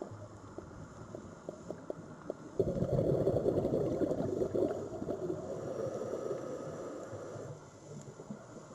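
Sea water: small lapping ticks, then about two and a half seconds in a wave surges in suddenly, washes for a few seconds and fades away.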